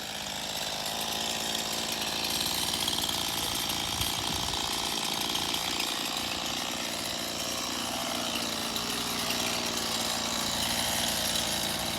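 Chainsaw idling steadily.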